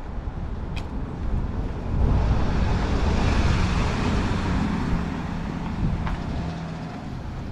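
Strong wind buffeting the microphone with a low rumble throughout. A car passes by in the middle, its road noise swelling and then fading away.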